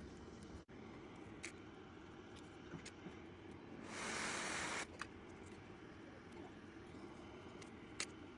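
A short hiss lasting just under a second, about four seconds in, over a quiet steady background with a few faint clicks.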